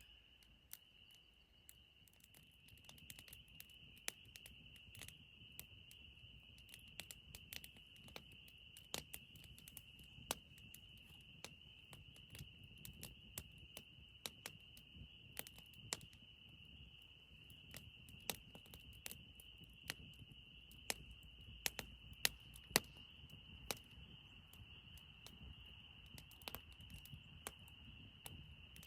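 Faint outdoor ambience: a steady high-pitched chorus of calls, with many scattered sharp clicks and ticks over it.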